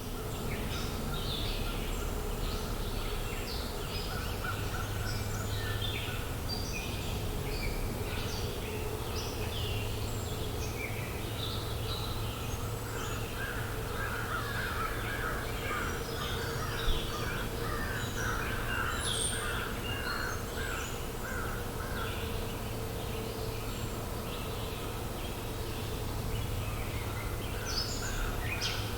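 A chorus of songbirds chirping and singing, with crows cawing among them, over a steady low outdoor background hum.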